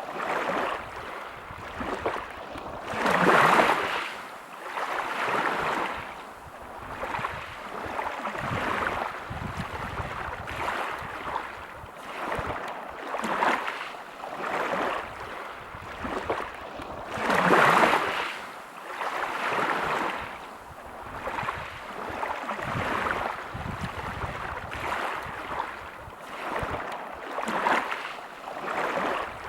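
Small waves breaking on a pebble beach, each swell surging up and washing back over the stones in a rough rhythm every two to three seconds, with two larger breakers about three and a half seconds in and again around seventeen seconds in.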